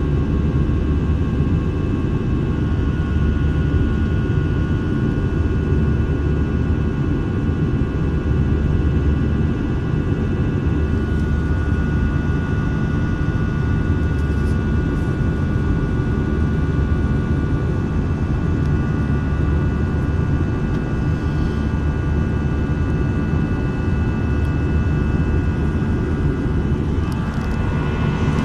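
Jet airliner engines heard from inside the passenger cabin in flight: a steady deep roar with a high, even whine above it.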